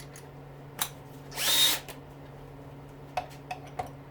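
Power drill-driver spinning briefly, about half a second with a rising whine, backing out Torx screws; a few light metallic clicks and taps before and after it over a steady low hum.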